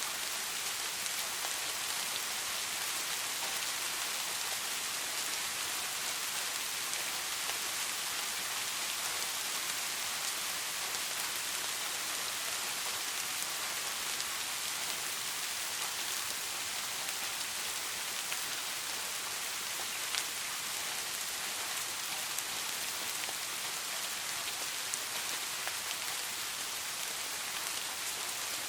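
Steady rain falling on a surface: a continuous even hiss with scattered single drop ticks, one a little louder about two-thirds of the way through.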